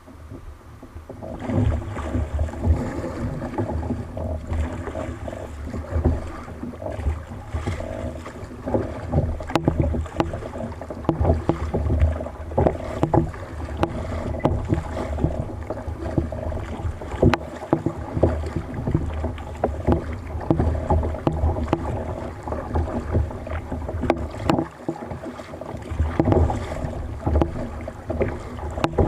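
A kayak moving over the sea: splashing water and strokes against the hull, in irregular surges with small knocks, starting about a second and a half in.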